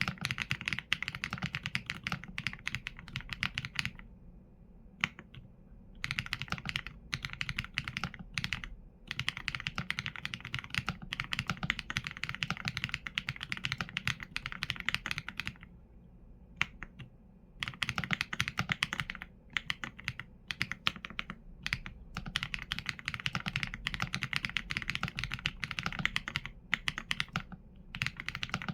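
Continuous typing on a mechanical keyboard with Leobog Graywood V4 linear switches and PBT keycaps: rapid runs of keystrokes broken by brief pauses a few times.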